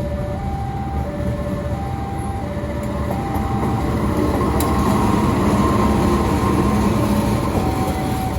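A train passing, its rumble building and loudest about halfway through. Under it a level-crossing warning alarm keeps sounding, alternating between two notes.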